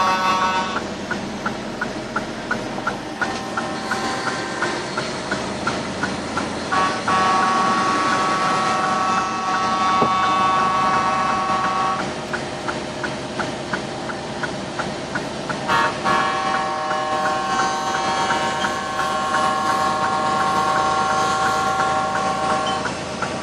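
Truck air horns sounding, with long held multi-note chords alternating with runs of quick repeated toots, about three a second.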